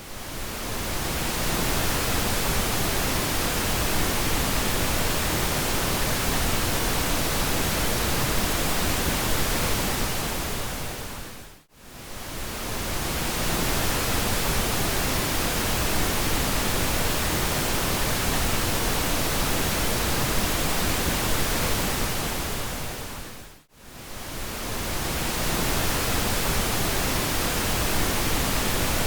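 Steady pink noise, an even hiss spread across all pitches. It swells in at the start, then fades briefly to near silence and back twice, about twelve seconds apart.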